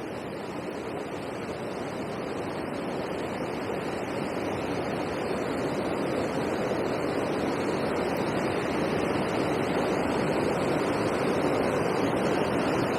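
Steady rush of water tumbling over a river weir, growing slowly louder.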